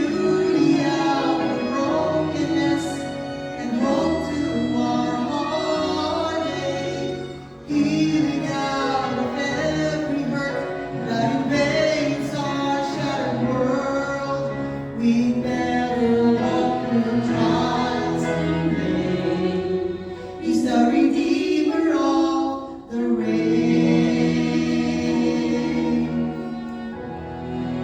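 A song sung by several voices together in a choir-like gospel style, with sustained sung notes over a low accompaniment.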